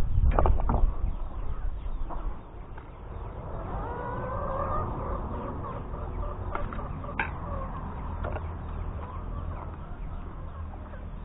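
Domestic chickens clucking, with one drawn-out call from about three and a half to seven seconds in. Low thumps and sharp clicks from handling come in the first second.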